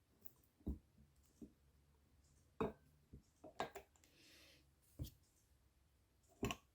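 Scattered faint clicks and light knocks, about seven of them, as small metal valvetrain parts on an Alfa Romeo 33 8V cylinder head are handled, the tappets being lifted out.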